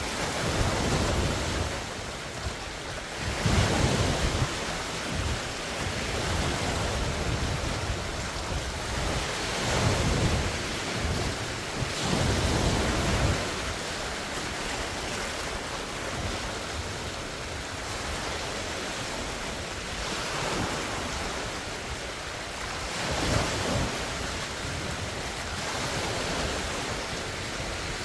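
Big wind-driven lake waves splashing in a continuous wash, swelling into louder surges every few seconds. Gusty wind buffets the phone's microphone.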